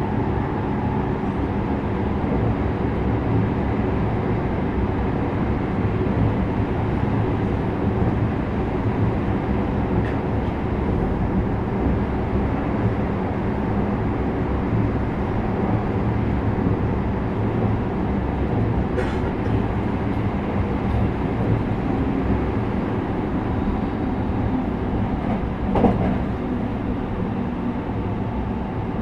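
JR West 321 series electric train running steadily at speed, a continuous rumble of wheels on rail with a faint steady motor hum. A light sharp tick comes about two-thirds of the way through, and a louder single knock near the end.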